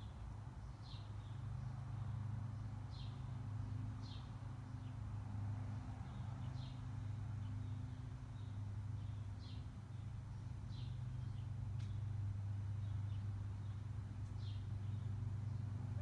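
Backyard ambience: a bird gives short, high chirps about once a second over a steady low hum.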